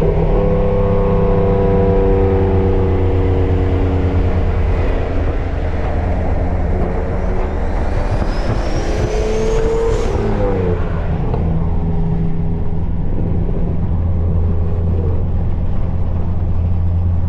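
Steady engine and road drone of a six-speed manual Nissan Altima under way, heard from inside the cabin. A high whine rises for a couple of seconds and cuts off about ten seconds in.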